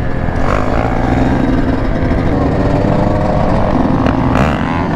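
Dirt bike engine running, its pitch shifting a little as the revs change.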